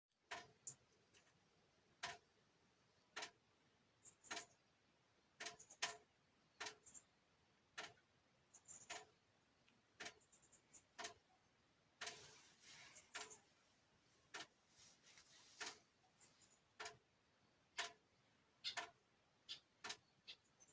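Campfire crackling: burning wood giving off irregular sharp pops and snaps, roughly one a second, with a few short spells of hissing.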